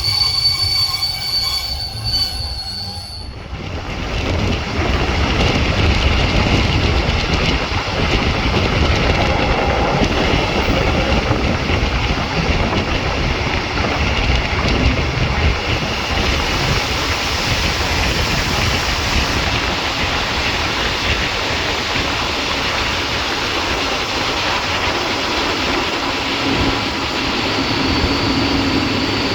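A regional train running on the track, heard from on board: a steady high-pitched wheel squeal for the first three seconds that cuts off abruptly, then the even rumble and rattle of the moving train. A high squeal comes back near the end.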